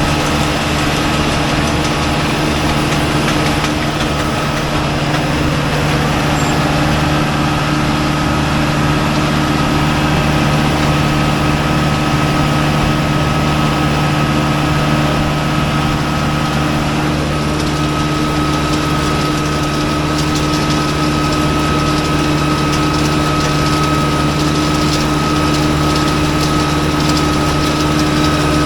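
Diesel tractor engine running at a steady speed, a constant drone with a thin high whine over it that strengthens slightly after about seven seconds.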